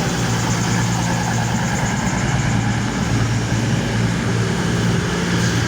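CrossCountry Voyager diesel-electric multiple unit's underfloor diesel engines idling at the platform with a steady, unchanging hum.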